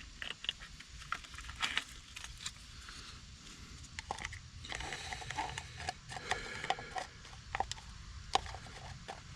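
Scattered light clicks and taps of hand tools and small metal parts, as the points and condenser are tightened on a tractor's distributor.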